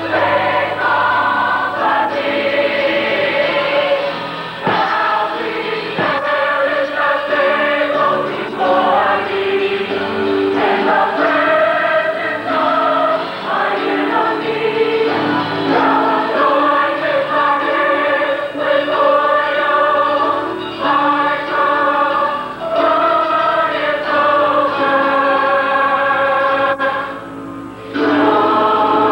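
Gospel choir singing in harmony, with long held notes and no clear words. There is a short break about two seconds before the end, then the choir comes back in.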